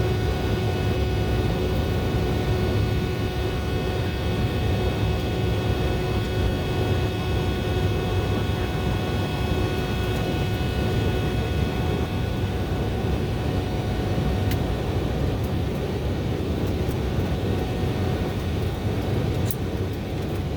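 Jet airliner cabin noise: a steady engine drone with several steady whining tones, the higher ones fading out about halfway through.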